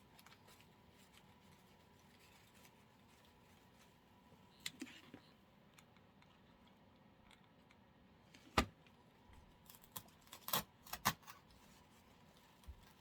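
Scattered clicks and rustles of artificial flower stems and leaves being handled and pushed into a centerpiece arrangement, with the sharpest click about two-thirds of the way through and a quick cluster of them shortly after.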